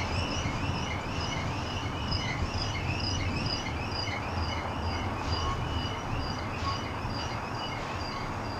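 Double-stack container freight train rolling past: a steady low rumble, with a high chirping sound repeating about twice a second over it.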